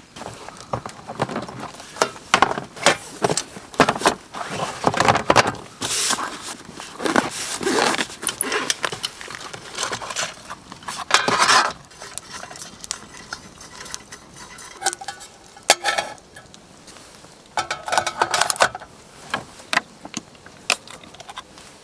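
Metal camp cookware and utensils clattering and clinking as they are handled, in irregular runs of knocks; a few strikes in the second half ring briefly.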